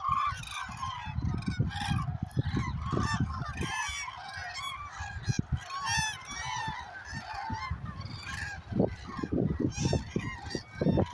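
A large flock of common cranes calling all at once: many overlapping, honking, trumpeting calls with no pause, and a low uneven rumble underneath.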